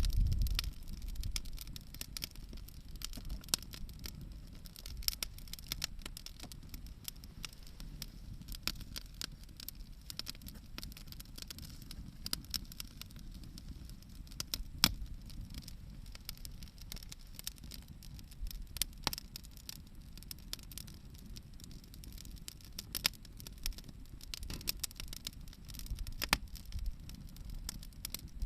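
Wood bonfire crackling, with many irregular sharp pops over a low rumble.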